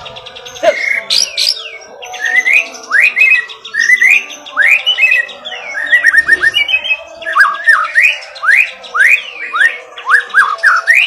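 White-rumped shama (murai batu) singing loudly: a continuous run of rising and falling whistles mixed with short, fast trills, one phrase after another.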